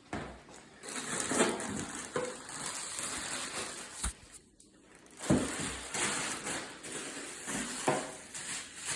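Rustling and crinkling of packaging as ceiling fan parts are handled and pulled out of their box, with a couple of knocks about four and five seconds in.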